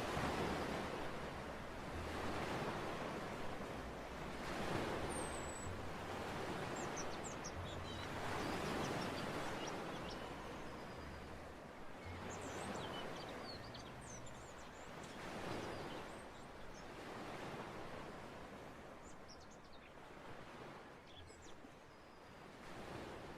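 Sea waves washing onto a beach, swelling and receding every few seconds, with small birds chirping faintly above them. The whole sound slowly gets quieter.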